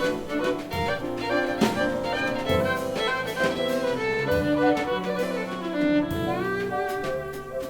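Live jazz violin playing a melody over piano and drums, with steady drum and cymbal hits; a phrase slides upward in pitch near the end.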